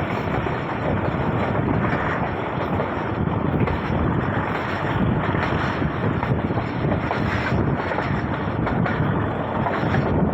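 Passenger train running along the line, heard from aboard: a steady rush of running noise mixed with wind blowing across the microphone.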